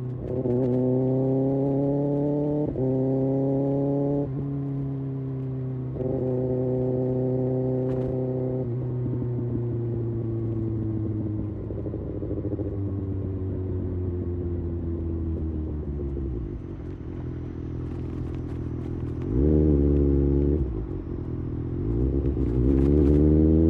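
Kawasaki Ninja ZX-6R's inline-four engine and exhaust under way: it pulls through the gears with the pitch stepping at each shift over the first nine seconds, then the engine speed falls steadily as the bike slows. It sits low for a couple of seconds, gives a short rev a little before the twentieth second, and the revs rise again near the end.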